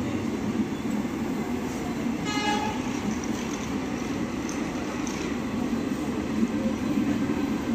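Passenger coaches of an Indian Railways express running past, a steady rumble of wheels on the rails. A brief horn toot sounds about two seconds in.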